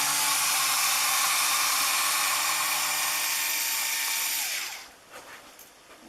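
Drill press running with a steady whirring hiss for about five seconds, then switched off, its pitch sagging briefly as it winds down.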